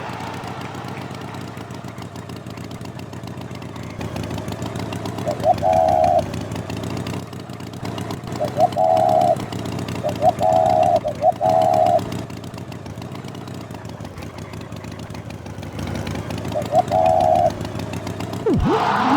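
A steady engine hum with short, loud horn-like beeps, some single and some in quick succession, and a quick swooping pitch glide near the end.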